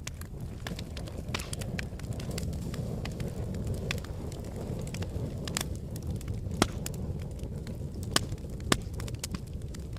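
Wood fire burning in a fireplace: a steady low rumble of the flames with irregular crackles and sharp pops of the burning logs, a few louder pops about two-thirds of the way through.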